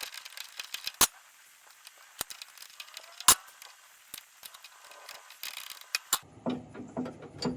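Scattered sharp metal clicks and knocks from hand tools working on a bulldozer's linkage parts, with two loud strikes about one and three seconds in.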